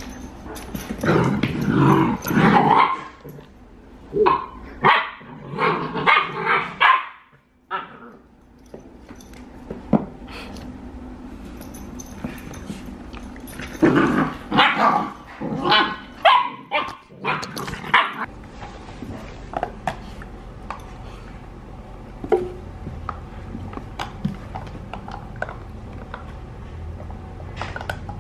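Doberman pinscher puppies barking in several bursts of short barks through the first two-thirds, with only scattered faint sounds after that.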